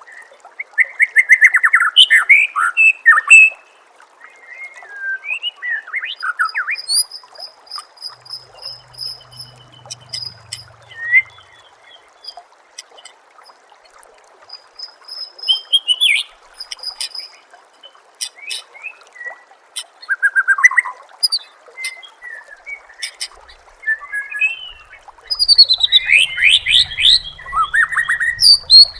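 White-rumped shama singing loud bursts of rich, varied phrases, with thin high trills and repeated notes in between, over a steady trickle of water.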